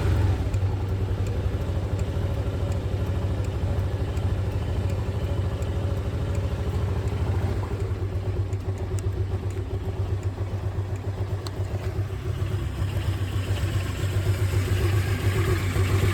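Yamaha Grand Majesty 250 scooter's single-cylinder four-stroke engine idling steadily just after being started, growing a little louder near the end.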